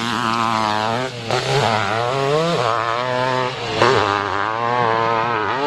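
Hill-climb motorcycle engine running hard, its pitch dipping and rising again several times as the throttle is worked.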